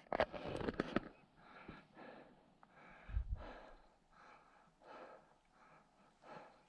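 A hiker breathing hard and rhythmically while climbing a steep mountain trail, about one and a half breaths a second. A short burst of loud rustling noise comes in the first second.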